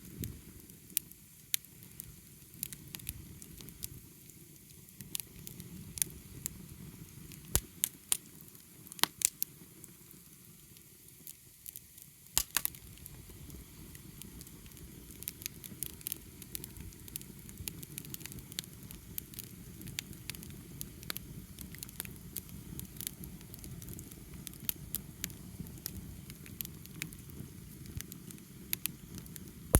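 Wood fire crackling, with sharp irregular pops over a steady low rush of burning.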